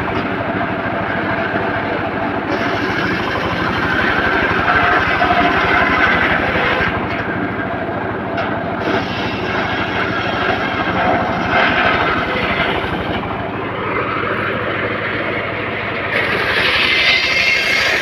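Homemade engine-driven circular saw rig running steadily while its blade cuts teak, the cutting noise swelling and easing as the log is fed, and growing louder again near the end.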